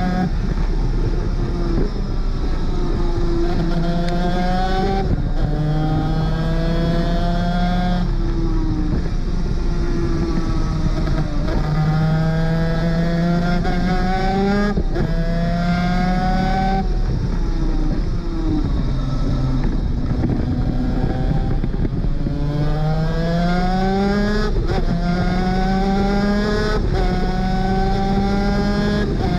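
Two-stroke 250 cc superkart engine at racing speed, its note climbing through the revs and dropping sharply at each gear change. In one stretch the pitch falls away as it slows, then it climbs again.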